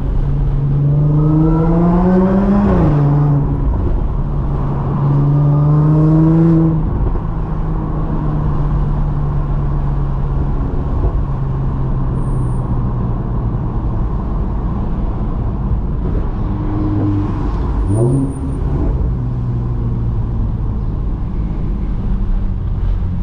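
Audi S4 B8.5's supercharged 3.0-litre V6 breathing through test pipes, resonated downpipes and an AWE touring cat-back exhaust. The engine pulls up through the revs twice, with a gear change a little under three seconds in and another climb around five to seven seconds. It then settles into a steady cruising drone, with a brief rev blip around eighteen seconds.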